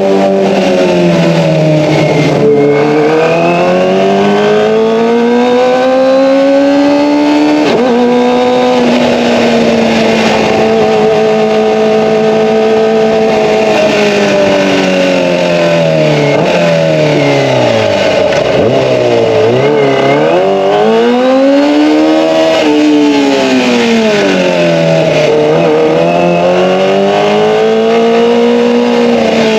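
Kawasaki ZX-25R's 250 cc inline-four engine through an Akrapovic Evolution exhaust. The revs climb to a sudden drop about eight seconds in, like a gear change, hold steady for several seconds, then fall away and rise and fall again several times with the throttle.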